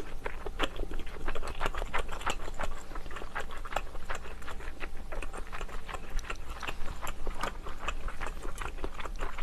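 Close-miked chewing of a bite of seafood: a steady run of irregular small clicks and smacks, several a second.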